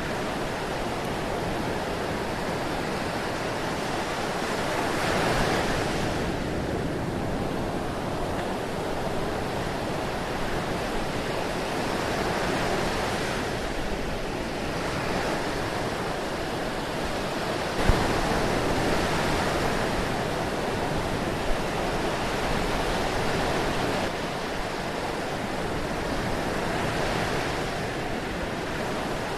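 Ocean surf washing continuously, waves swelling and falling back every several seconds. A single sharp click about eighteen seconds in, and a smaller one a few seconds later.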